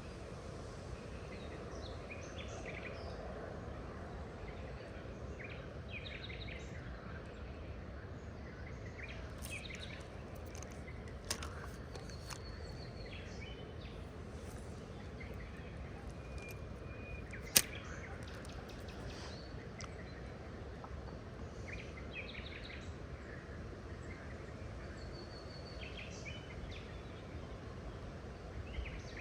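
Assorted wild birds chirping and calling in short, scattered phrases over a steady low outdoor background. A single sharp click stands out a little past the middle, with a fainter one a few seconds earlier.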